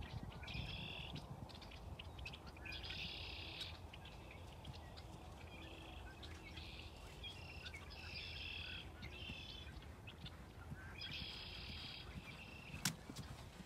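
Birds calling over and over, short buzzy trilled phrases high in pitch coming every second or two, over a faint low rumble. A single sharp click near the end.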